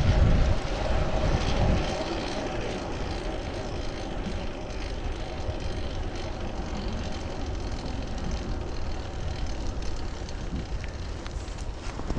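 Steady wind and road noise while riding a fixed-gear bicycle, picked up by a chest-mounted action camera. A louder low rumble in the first two seconds then settles to an even level.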